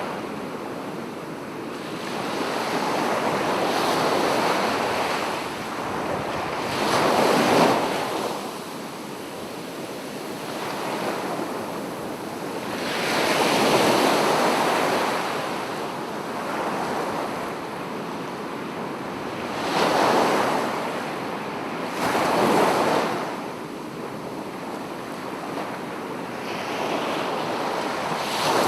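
Sea waves breaking and washing up a beach. The surf swells and ebbs, with a wave cresting every six seconds or so, the loudest about seven seconds in and again at the very end.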